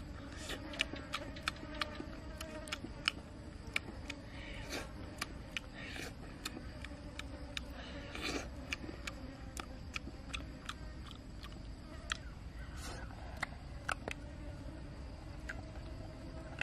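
Eating sounds: many sharp, irregular mouth clicks and smacks as roasted eggs are bitten off a stick and chewed, over a steady low buzzing.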